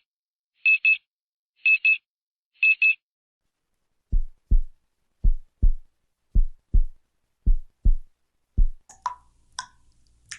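Short high electronic beeps in pairs, about one pair a second, four times. They give way to a heartbeat-like double thump, lub-dub, about once a second, five times. A few light clicks follow near the end.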